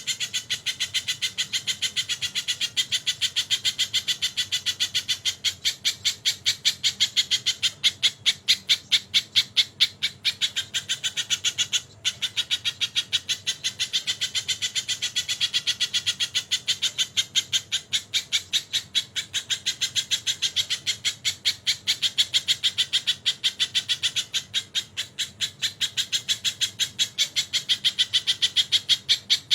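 Sogon songbird singing a long, fast string of harsh repeated notes, about four a second, in imitation of a kingfisher's (tengkek) call, with a brief break about twelve seconds in.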